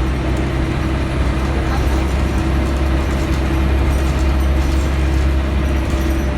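Scania L113CRL bus's diesel engine running steadily under way, heard from inside the passenger cabin as a deep drone with road noise and a few faint rattles.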